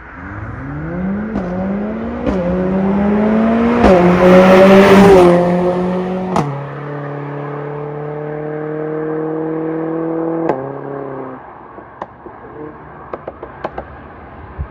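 Mercedes-AMG CLA45 S 2.0-litre turbocharged four-cylinder (M139) with an aftermarket mid pipe and the factory muffler, accelerating hard through the gears: the exhaust note climbs in pitch and drops sharply at each of about three upshifts, each with a sharp crack. It then holds a steady, lower note. About ten and a half seconds in, the throttle comes off and the sound falls away, followed by scattered light ticks and pops.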